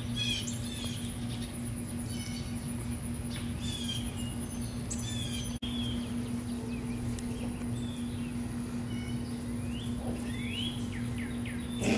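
Songbirds chirping outdoors in short, repeated, falling chirps, over a steady low hum.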